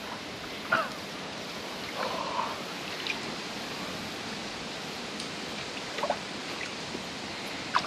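Steady rush of moving water, with a few short faint sounds over it.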